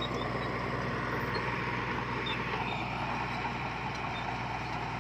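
Diesel engine of heavy earthmoving equipment running steadily, with the clatter and rumble of the machine at work.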